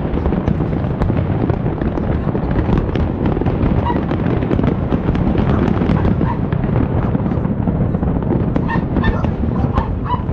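Fireworks display going off continuously: dense booming rumble with rapid crackling. A few short, high-pitched honk-like calls sound over it, clustered near the end.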